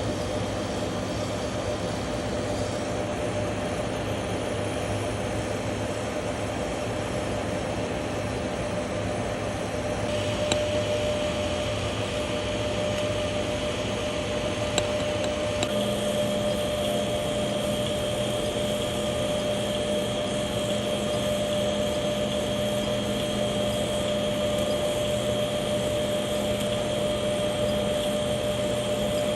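Steady hiss and hum of welding equipment running while Stellite hardfacing is laid down, with a few faint clicks. The tone shifts about a third of the way in and again about halfway through.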